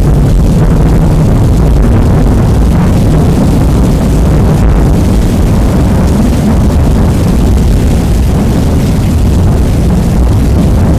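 Rain recording, heavily bass-boosted and distorted into a loud, steady low rumble of noise.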